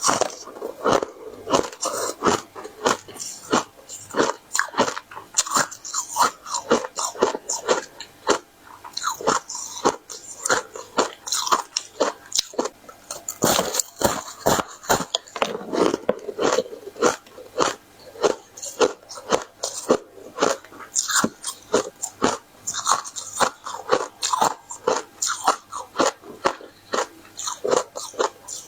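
Close-up biting and chewing of a crisp bitter-buckwheat ice-crisp flatbread: a continuous run of sharp, crisp crunches, several a second.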